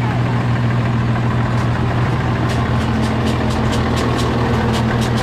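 A vehicle engine idling steadily with a constant low hum. From about a second and a half in, a run of about ten short, sharp clicks sits over it.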